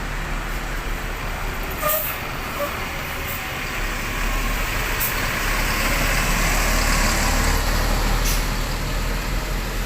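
Large diesel intercity bus engine running close by, growing louder through the middle as the bus moves past. A few short hisses of air are heard, about 2, 5 and 8 seconds in.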